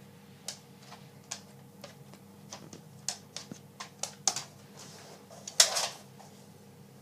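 A pet animal making a quick, irregular series of short sharp clicks and puffs, with one louder, longer noisy burst of about half a second near the end.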